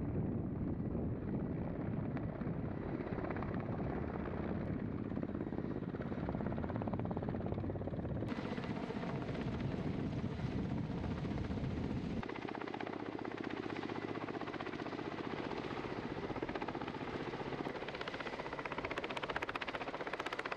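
Ka-52 attack helicopter in flight: steady rotor and turbine noise with a fast, even beat. Its tone changes abruptly twice, about 8 and 12 seconds in, as if between separate recordings.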